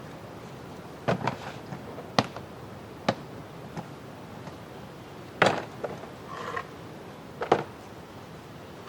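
A series of short, sharp knocks and clacks at irregular intervals, about seven in all, over a steady low background noise.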